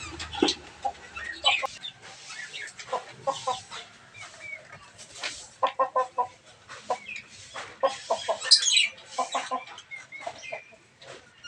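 Chickens clucking in short, quick runs of notes, with sharper, higher bird calls mixed in, the loudest about eight and a half seconds in.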